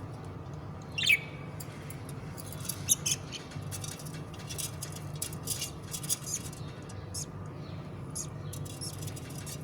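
Budgerigar chicks squeaking and chirping: one louder falling chirp about a second in, then a run of short, high squeaks, over a steady low hum.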